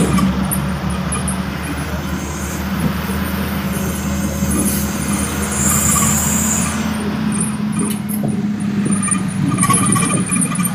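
Truck engine running steadily, with tyre and road noise.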